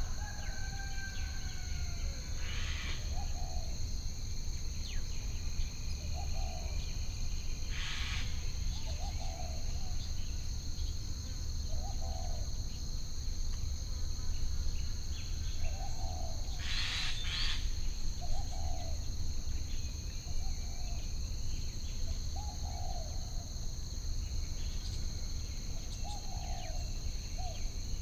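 Added nature ambience: crickets trilling steadily and high, with short low calls repeating about every two seconds and a few louder bird calls, over a constant low rumble.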